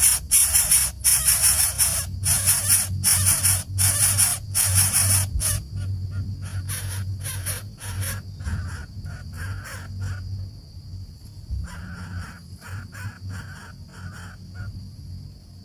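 Nestling birds begging with repeated harsh, raspy calls, loud and rapid for the first five seconds or so, then softer and more broken.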